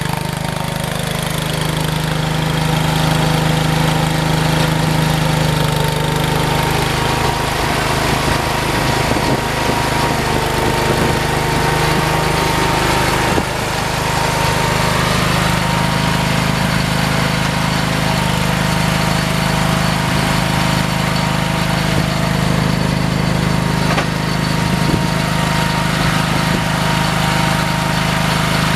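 Engine running steadily; its note wavers and dips for several seconds about a third of the way in, then settles back to a steady pitch.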